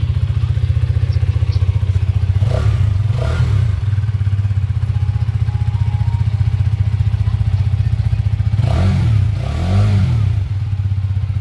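Hero Karizma XMR motorcycle's single-cylinder engine idling with a steady, fast exhaust beat, blipped four times in two pairs: each short throttle blip rises in pitch and falls back to idle.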